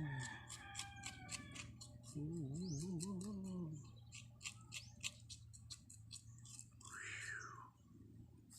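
Close-up mouth sounds of someone eating raw leaves: repeated wet smacks and clicks of chewing, with a wavering closed-mouth "mmm" hum about two seconds in. A short call rises and falls near the end.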